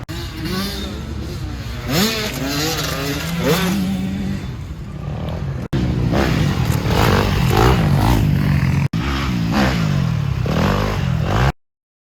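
Dirt bike engines running and revving, pitch rising and falling, across several short segments that cut off abruptly. The sound stops dead about half a second before the end.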